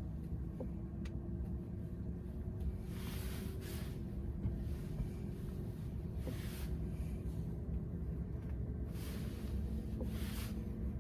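Road and tyre noise inside the cabin of a moving VW ID.4 electric SUV: a steady low rumble with a faint steady hum, and a few soft swells of hiss.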